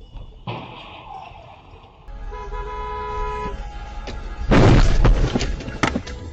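A car horn sounds in a steady tone for about a second, then a loud crash of vehicles colliding bursts out about four and a half seconds in, with a sharp knock shortly after.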